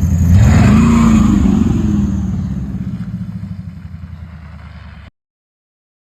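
Motor vehicle engine revving, its pitch rising over the first second or so and then easing off as it fades away, cut off abruptly about five seconds in.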